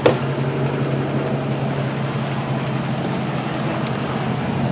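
2006 Dodge Charger idling steadily, a low even hum. A single sharp click comes right at the start.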